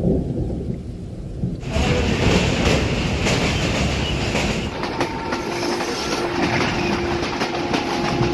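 Passenger train running on the rails, wheels clacking over the rail joints. The sound turns fuller and louder after about a second and a half.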